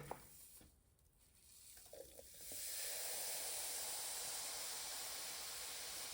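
Citric acid solution fizzing hard as washing soda (sodium carbonate) goes in: a steady hiss of bubbles that starts about two seconds in, after a few faint clicks.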